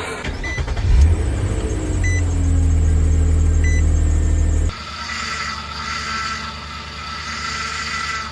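A car's low rumble, its pitch sagging at first, with three short high beeps spaced evenly. About four and a half seconds in it cuts abruptly to a quieter steady high-pitched whine.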